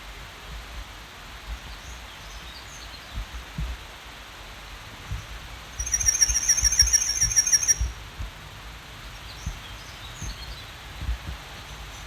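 A songbird sings one loud, rapid trill of repeated high notes for about two seconds around the middle, with a few faint bird chirps before and after. Underneath are a steady background hiss and low rumbles of wind on the microphone.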